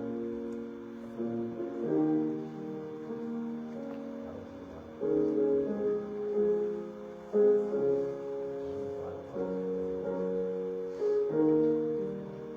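Slow piano music: held chords that change every second or two.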